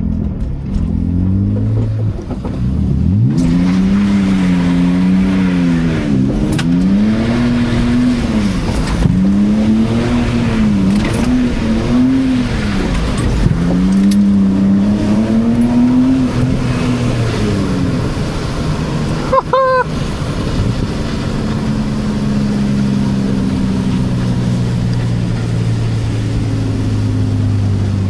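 BMW E46 328Ci's 2.8-litre inline-six revving up and down hard, over and over, while the car slides on wet pavement, with a steady hiss of tyres and spray underneath. After a brief high chirp, the engine settles to a steadier, lower drone.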